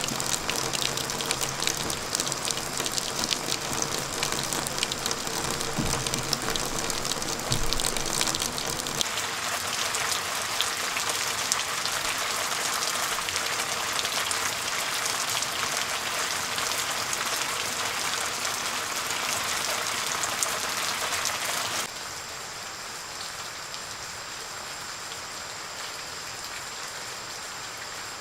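Rain falling on a surface: a dense hiss with many small ticks. A little over twenty seconds in it drops suddenly to a quieter, even hiss.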